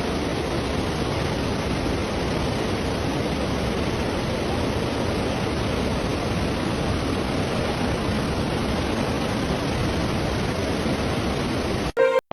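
Floodwater rushing in a steady, unbroken noise that cuts off abruptly near the end.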